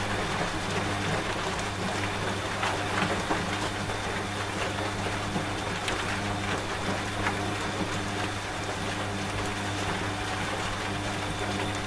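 Washing machine running with a steady low hum, together with steady rain and scattered drop ticks.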